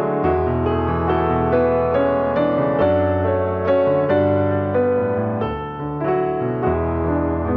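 Background piano music: gentle sustained chords with a slow melody over low held bass notes.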